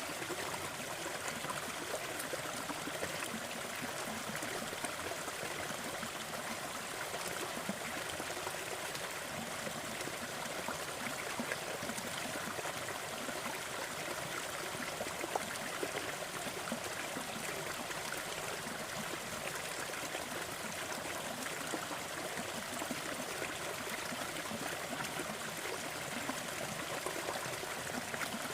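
Fire crackling steadily with small pops over a constant noise bed, with one slightly louder pop about halfway through.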